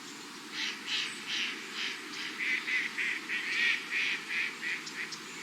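A duck calling in a rapid series of short, repeated calls, about two to three a second, over a steady background hiss.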